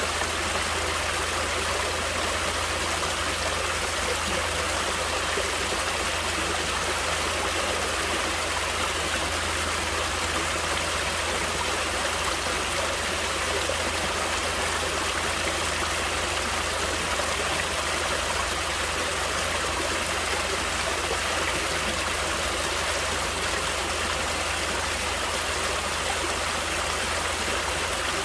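Natural stream water flowing steadily: an even, unbroken rush of water with no pauses or changes.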